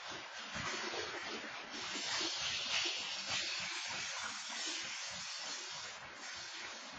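Freight train coal hopper cars rolling past at speed: a steady rushing noise of steel wheels on the rails, swelling a little a couple of seconds in. Heard thin through a security camera's microphone.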